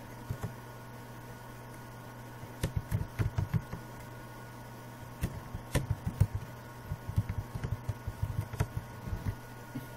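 Computer keyboard being typed on: a short run of key clacks about two and a half seconds in, then a longer run from about five seconds until near the end, over a low steady hum.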